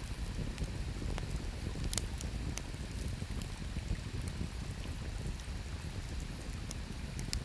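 Wood campfire crackling, with scattered sharp pops, the strongest about two seconds in and near the end, over a steady low rush.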